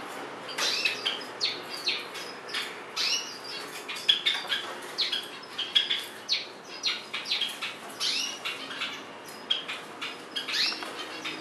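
A white-eye fluttering its wings and rustling through the wet leaves of a potted plant while it bathes, with many short, high bird chirps several times a second throughout.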